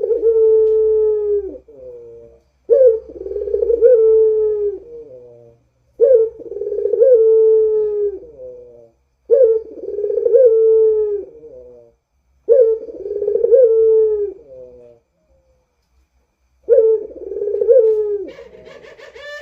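Puter (Barbary dove) giving its long moaning 'rintihan' coo, the call of a bird in full voice. The phrase repeats about every three seconds, six times, with a slightly longer pause before the last one.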